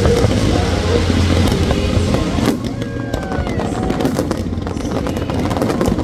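Fireworks display going off: a continuous low rumble of booms with many sharp cracks. The rumble lightens about halfway through, leaving mostly crackling, with music faintly underneath.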